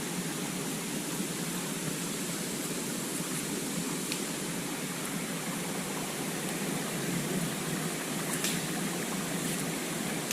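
Steady rush of falling and flowing water from a waterfall and stream. Faint ticks come about four seconds in and again near the end.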